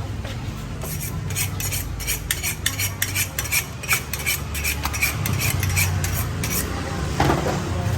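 Cleaver chopping roast pork on a chopping block: a quick series of sharp strikes, about three a second, each with a short metallic ring, stopping near the end.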